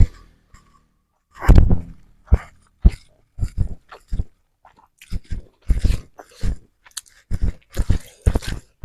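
Close-miked mouth sounds of someone eating fried noodles with rice: chewing and smacking in short, uneven bursts a few times a second, starting with one louder sound about one and a half seconds in.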